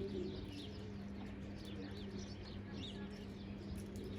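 Faint bird calls: scattered short, high chirps throughout, over a steady low hum.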